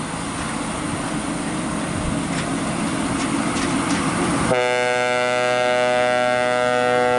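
Vehicle engines and traffic rumbling, then a long, loud air-horn blast that starts abruptly past halfway and is held for about three seconds.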